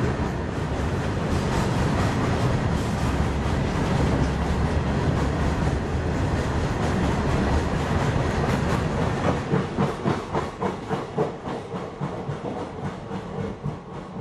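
Freight train of open box wagons rolling past close by: a steady heavy rumble and clatter of steel wheels on rail. From about two-thirds in, the rhythmic clickety-clack of wheelsets over rail joints stands out, and the sound starts to fade near the end as the last wagons go by.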